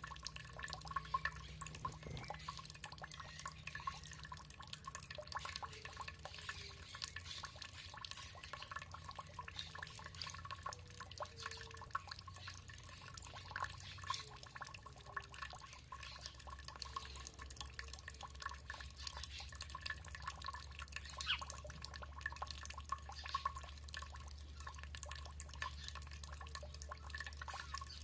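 Water dripping and trickling: an irregular, constant patter of many small drops.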